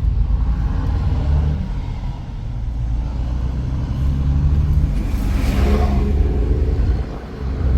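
A motor vehicle passing close by on the street: a heavy low rumble, with a swell of engine and tyre noise that builds and fades a little past halfway.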